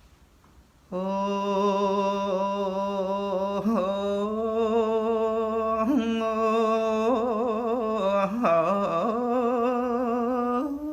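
A single voice chanting a slow melodic line in long held notes with vibrato, starting about a second in. It is typical of a Buddhist verse sung within a dharma talk.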